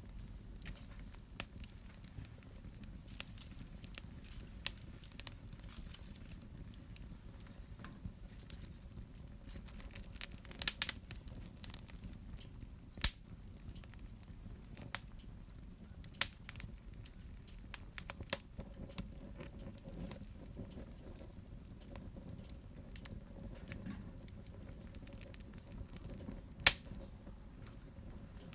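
Wood fire burning in a fireplace with a low steady rumble of flame, crackling with irregular sharp pops, a quick run of them about ten seconds in and single louder snaps around 13 and 27 seconds.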